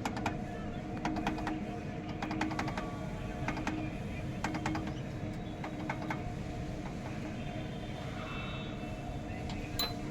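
Scattered sharp metal clicks and taps from hand tools, over a steady low mechanical hum with a few held tones.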